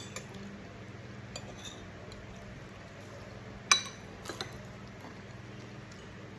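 Cutlery clinking against tableware a few times during a meal, the loudest clink about three and a half seconds in, over a faint steady hum.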